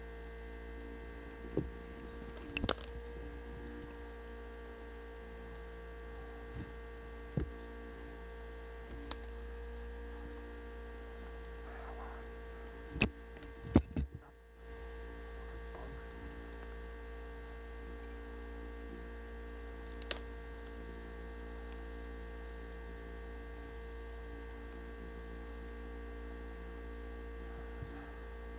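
Steady electrical hum with several fixed tones, broken by a few sharp clicks or knocks scattered through; the loudest pair comes about halfway, followed by a brief drop in the hum.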